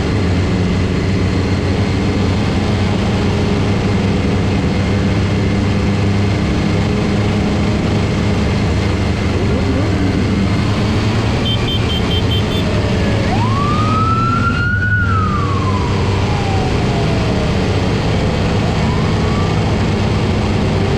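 Motorcycle engines running steadily in a group ride. About twelve seconds in there is a short run of high beeps, then a police siren rises in one sweep and slowly falls away.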